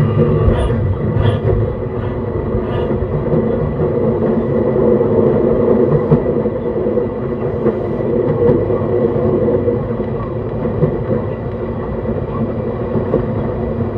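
JR East E131 series 600 electric multiple unit running on the line, heard from on board: a steady rumble of wheels on rail and running gear, with a few light clicks in the first three seconds.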